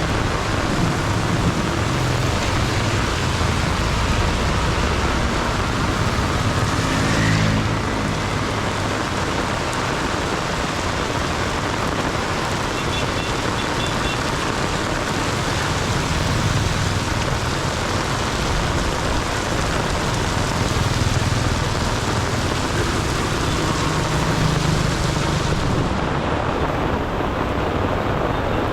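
Heavy rain pouring down in a steady loud hiss, with the engines of passing vehicles rumbling underneath, one going by about seven seconds in. The highest part of the hiss drops away near the end.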